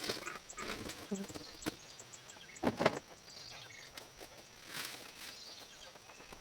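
Scattered rustles and knocks of brush and scrap being pulled from a pile and handled, the loudest a little under three seconds in and at the very end, over a steady high-pitched insect drone.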